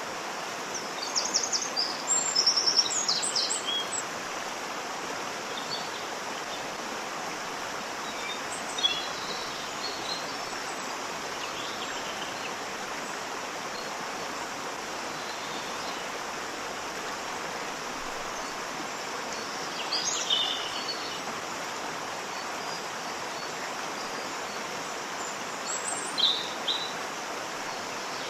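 Waterfall rushing steadily, with birds chirping now and then above it: a cluster of calls in the first few seconds, then short calls about a third of the way in, two-thirds of the way in and near the end.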